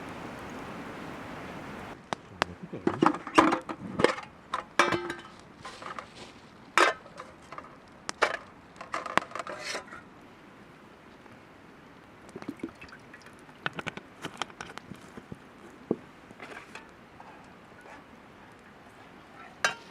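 Clinks and knocks of metal camp cookware and utensils being handled, with a dense run of sharp strikes, some ringing briefly, in the middle and scattered taps later. A steady hiss fills the first two seconds, then stops suddenly.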